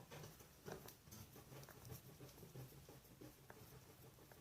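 Near silence: faint scattered clicks and light scraping from small chainsaw parts and hand tools being handled, over a low steady hum.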